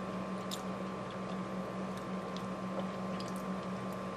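Faint sounds of someone eating: soft wet mouth and chewing noises with a few light clicks, over a steady low electrical hum.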